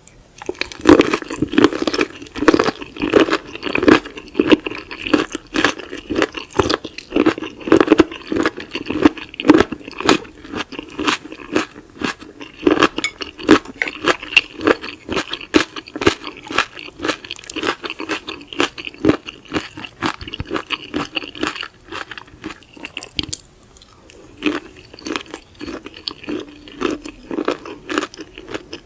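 Close-miked chewing of raw seafood: rapid, crisp crunching and wet clicking bites, continuous apart from a short lull a little past the two-thirds mark.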